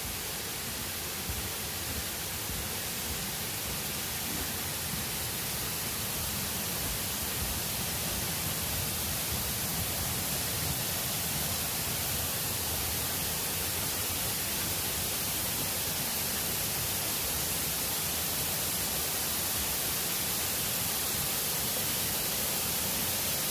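Smith Falls waterfall: a steady rush of falling water, slowly growing a little louder.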